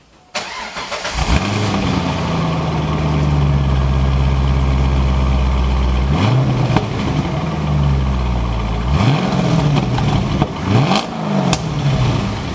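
The 2004 Chevrolet Corvette Z06's 5.7-litre V8 is cranked over and catches about a second in, flaring briefly before settling into a steady idle through its exhaust. In the second half it is revved several times, with two quick blips near the end.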